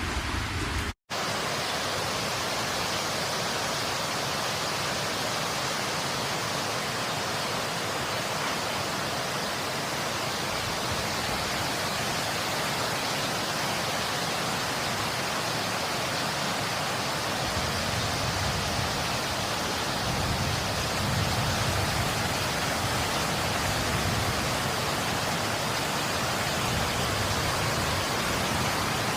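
Steady, dense rain noise, an even hiss with no separate drops standing out. About a second in it cuts out completely for an instant and then resumes.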